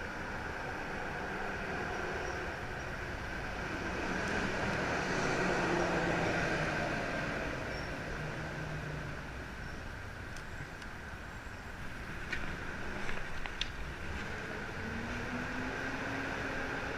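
Street traffic noise: a vehicle passes, swelling to its loudest about five seconds in and then fading, over a steady city hum, with a few faint clicks later on.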